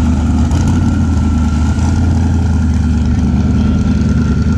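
Car engine idling steadily through a loud aftermarket exhaust, a deep, even rumble with no revs.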